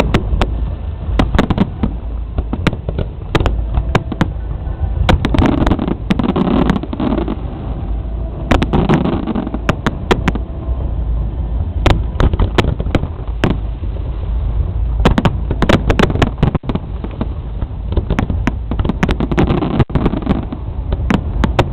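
Aerial fireworks bursting in a rapid, irregular barrage of sharp bangs and crackles, with a continuous deep rumble underneath.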